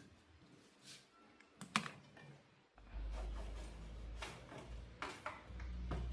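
Scattered light clicks and taps of small hard objects being handled, the sharpest a little under two seconds in. About halfway through, a steady low hum sets in under the clicks.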